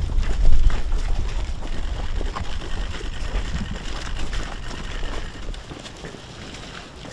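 Low, uneven rumble of wind buffeting the microphone, with scattered footsteps and clicks. The rumble dies down near the end.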